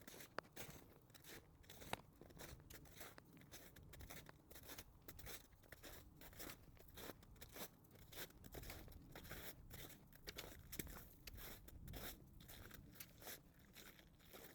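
Faint footsteps crunching through snow, an uneven run of short crackly crunches.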